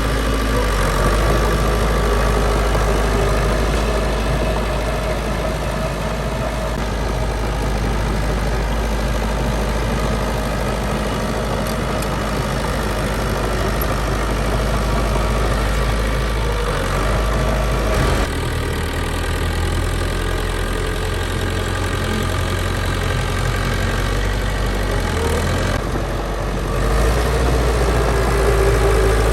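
Diesel engine of heavy earthmoving machinery running steadily, with a sudden change in its tone about two-thirds of the way through.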